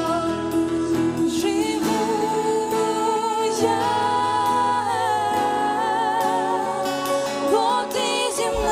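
Christian worship song performed by a youth worship group: sung vocals with vibrato over sustained instrumental accompaniment.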